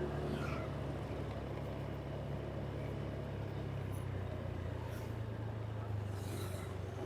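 Vehicle engine running steadily on the move, a low hum whose pitch steps down slightly about halfway through, with faint road noise.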